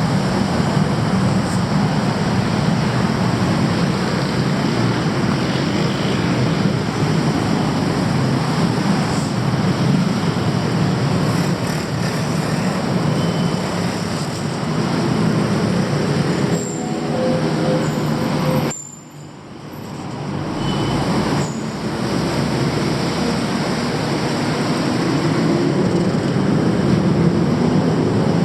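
A train running with a loud, steady rumble and faint high wheel tones. The sound drops away sharply for about a second roughly two-thirds of the way through, then builds back.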